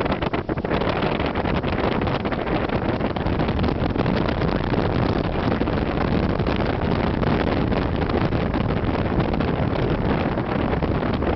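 Loud, steady rush of high floodwater, with no let-up.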